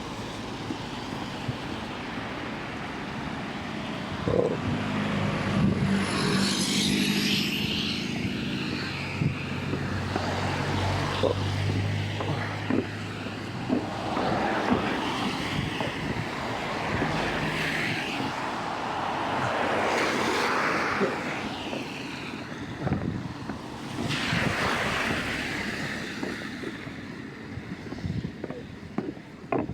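A motor vehicle's engine hums for about a dozen seconds in the middle, over rushing floodwater and wind noise on the microphone that swell several times.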